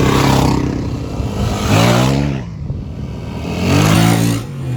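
Trail motorbike engines running, with two loud rev-ups about two seconds apart, each rising in pitch as a bike accelerates away on desert sand.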